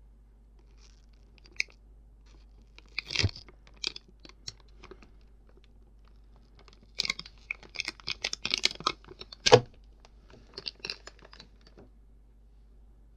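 Sweets packaging crinkled and torn close to the microphone for ASMR, in several short bursts of crackling and crunching, with a louder knock about nine and a half seconds in.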